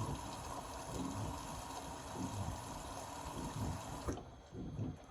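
Indesit Innex BWE 91496X washing machine filling with water: a steady hiss of water running in, with water sloshing in the drum. The hiss stops abruptly about four seconds in, leaving the sloshing.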